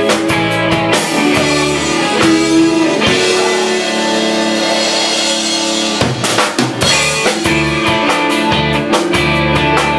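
Live rock band playing with drum kit, electric guitar and bass. About three seconds in, the drum beat drops out and chords ring out. The full beat comes back about six seconds in.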